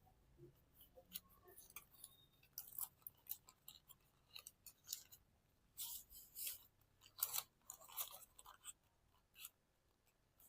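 Origami paper being folded and creased by hand: faint, irregular crinkles and rustles, the loudest a little after the middle.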